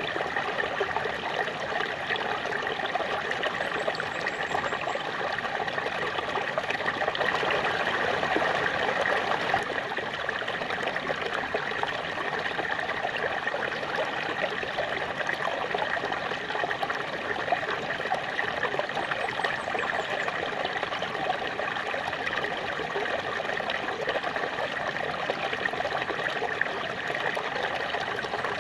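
Small waterfall: water splashing and trickling steadily over rocks.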